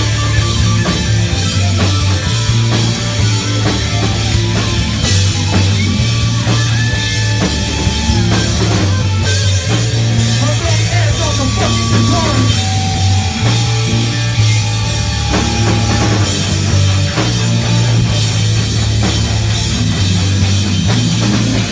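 Hardcore punk band playing a song live and loud: drum kit hits over heavy bass notes and guitars.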